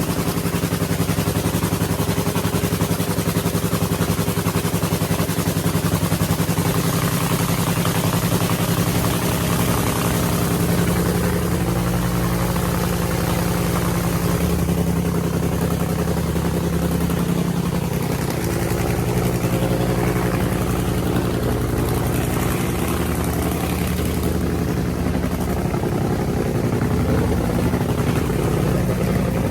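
Drag racing car's engine running at a loud, steady idle, its pitch stepping up and down a little several times.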